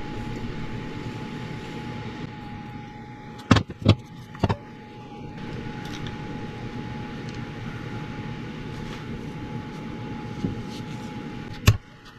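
Steady background hum with a faint high whine, broken by a few sharp metallic clicks: three close together about a third of the way in and one near the end, from tools and parts as a Honda CR250's power valve is taken apart.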